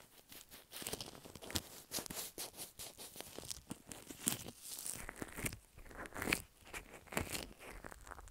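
Slime being squeezed and pulled close to the microphone: a dense, irregular run of sticky crackles and small pops.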